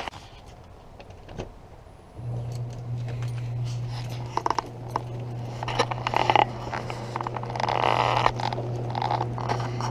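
Electric garage door opener running with a steady low hum that starts about two seconds in, with rattling, clicking and scraping over it as the door moves.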